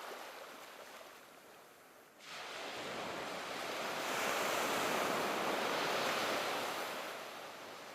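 A rushing hiss that comes in suddenly about two seconds in, swells, then fades away near the end.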